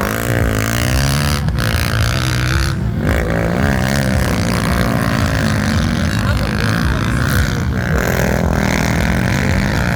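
Motocross dirt bike engines running and revving, their pitch rising and falling continuously.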